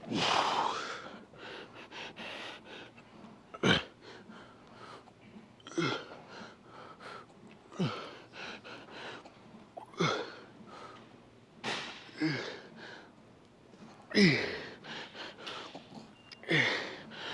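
A man's forceful, strained exhalations with short falling grunts, one about every two seconds, on each rep of a weightlifting set being pushed toward failure.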